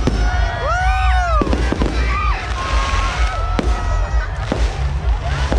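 Aerial fireworks exploding overhead: several sharp bangs a second or more apart, over a steady low rumble. A couple of rising-and-falling tones come between about half a second and a second and a half in.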